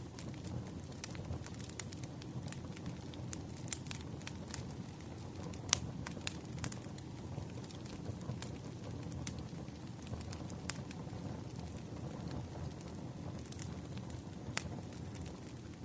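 Wood fire crackling: irregular sharp pops and snaps scattered over a low, steady rumble of burning logs.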